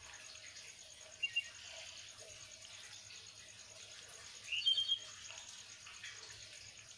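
Faint background with short bird chirps: a quick double chirp about a second in and a louder rising chirp around five seconds, over a steady, evenly pulsing high insect trill.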